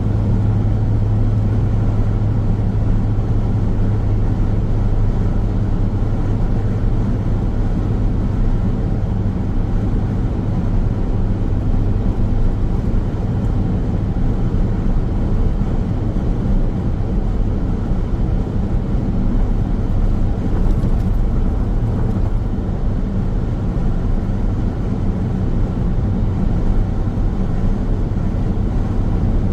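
Car driving on a highway, giving steady road noise: tyre rumble and engine running, with a low hum that eases slightly about a third of the way in.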